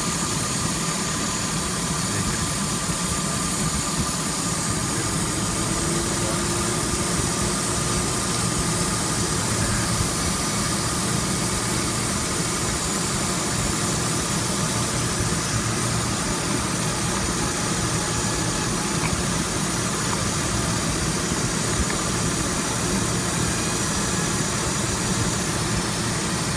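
A Chevrolet Tahoe's engine idling steadily, with a constant hiss over a low hum.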